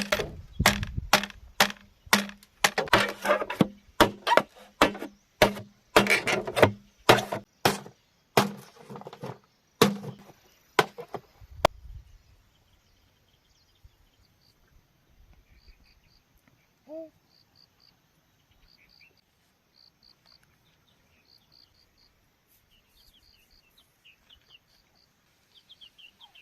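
Bamboo being chopped with a blade, sharp strikes about two a second that stop about twelve seconds in. After that, insects chirp in short, regular pulses.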